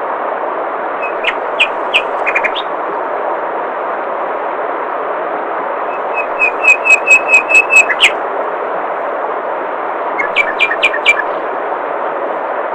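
Steady flowing water with a bird calling over it: a few chirps near the start, a fast run of about ten repeated high notes in the middle, and a few more chirps later.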